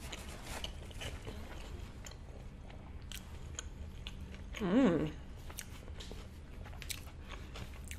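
Close-miked chewing of a birria queso taco, with soft wet mouth clicks. About halfway through comes a short wavering "mmm" of enjoyment.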